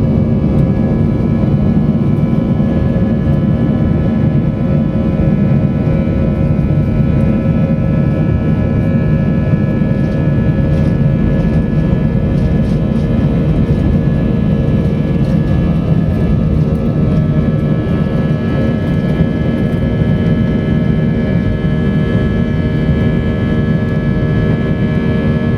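Airbus A320's jet engines heard from inside the cabin in flight: a steady rumble with several steady whining tones over it.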